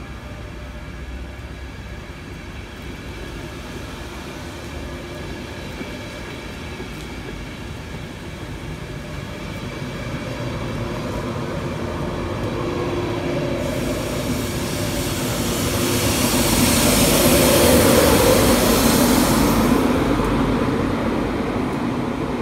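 LNER InterCity 225 electric train running past, the steady rumble of its Mark 4 coaches on the rails building through the first half. Over about six seconds, starting roughly two-thirds of the way in, it swells to a loud hiss with a hum as the Class 91 locomotive at the rear goes by close, then eases off near the end.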